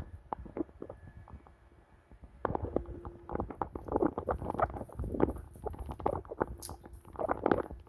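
Footsteps and handling noise of a handheld camera carried while walking: irregular clicks and taps, dropping away for about a second and a half near the start.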